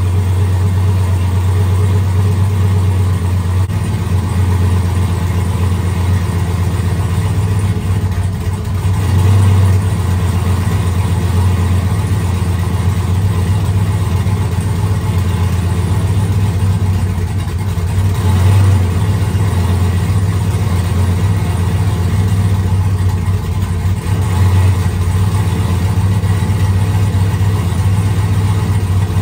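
Turbocharged 5.3 LS V8 engine idling steadily while it warms up to temperature as its coolant is bled. It briefly gets a little louder about a third of the way in and again past halfway.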